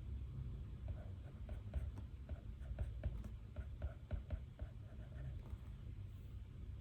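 Pen writing on paper: a run of short, quick strokes for several seconds, over a steady low room hum.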